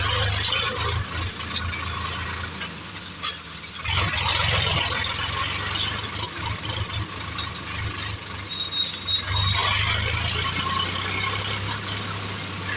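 Heavy diesel engine running steadily with a rough clatter. It dips briefly just before four seconds in, then picks up again.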